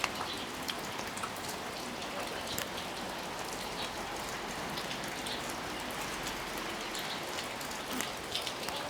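Steady heavy rain falling, with scattered sharp drips and pattering of drops on nearby surfaces.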